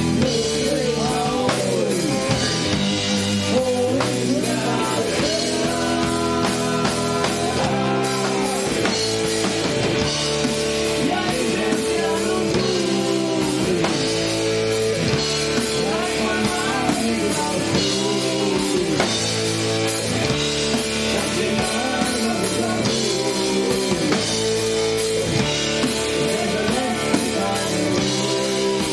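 Live rock band playing, with drum kit, electric guitar and bass, and a sung vocal line over it.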